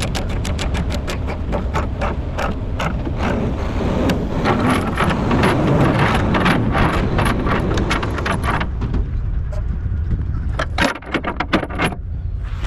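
Rapid, even metallic clicking, about five clicks a second, from tie-down chain hardware being worked while a heavy machine is chained onto a lowboy trailer. It sits over a steady low rumble, stops about eight and a half seconds in, and gives way to a few separate clanks.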